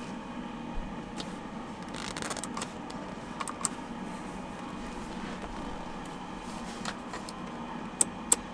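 Scattered light clicks and small rattles over a steady background hiss, with two sharp clicks near the end.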